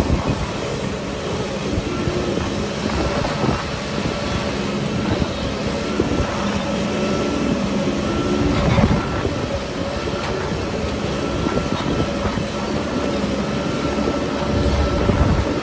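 Shantui crawler bulldozer working, its diesel engine running steadily under the clatter of its steel tracks, with a louder surge of knocking a little after halfway.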